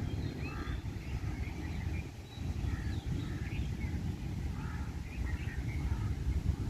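Birds chirping in short, scattered calls over a continuous low rumble of wind buffeting the microphone.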